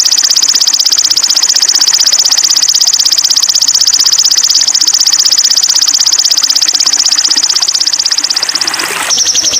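A songbird's long, very fast, high-pitched trill, played as a masteran song recording for training sogon birds; it breaks off about nine seconds in and starts again.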